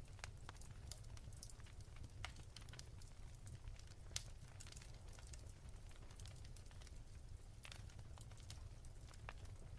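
Wood fire crackling in a fireplace: faint, irregular pops and snaps over a low steady rumble, the sharpest pop about four seconds in.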